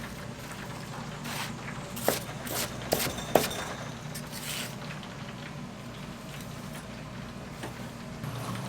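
A few short, sharp clicks and knocks, the loudest about three and a half seconds in, over a steady low hum.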